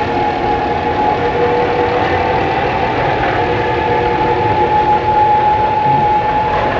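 The engine of a Snowdon Mountain Railway train running steadily, a loud even hum with a couple of held tones.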